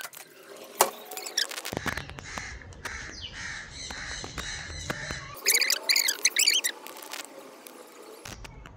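Birds calling: softer repeated calls, then a quick burst of several loud, sharp calls about two-thirds of the way through.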